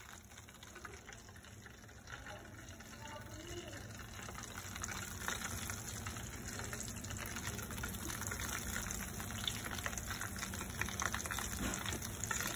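Battered chicken wings frying in a pan of hot oil: a dense crackling sizzle that grows steadily louder as more pieces are dropped in. This is the first, searing fry of a double fry.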